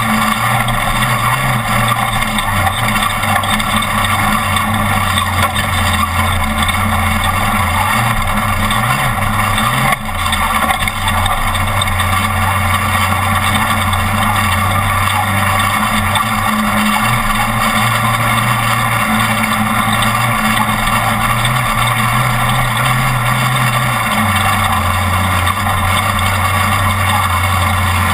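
Off-road race truck's engine running hard at speed, its pitch stepping up and down with throttle and gear changes, over a steady wash of wind and road noise. The level dips briefly about ten seconds in.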